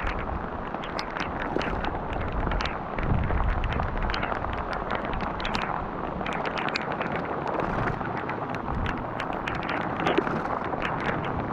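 Rain falling, with many irregular drops striking close to the microphone, over wind buffeting the microphone.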